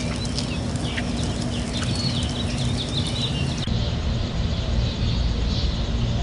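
Birds chirping over a steady low background rumble. About a third of the way through the track changes, leaving a steady low rumble and hiss with soft swells.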